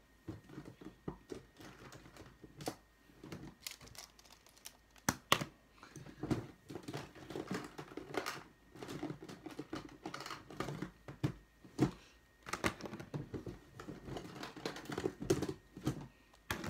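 Plastic puzzle cubes being handled and set down on a tabletop: irregular clicks and clacks with rustling in between.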